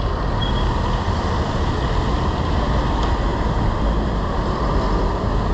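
Steady street traffic noise: a dense, even rumble with no distinct events.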